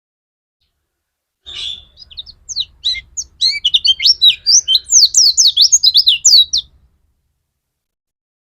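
A pleci (white-eye) singing in full voice: a fast run of short, high chirping notes and quick sweeps that starts about a second and a half in, grows louder, and stops suddenly about seven seconds in.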